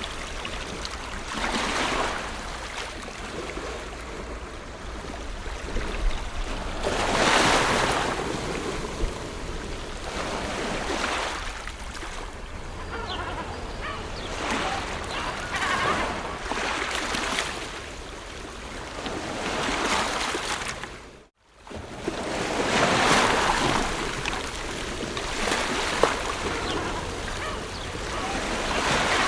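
Ocean surf: waves breaking and washing in, swelling and falling back every three to four seconds over a steady low rumble. The sound cuts out completely for a split second about two-thirds of the way through, then the surf resumes.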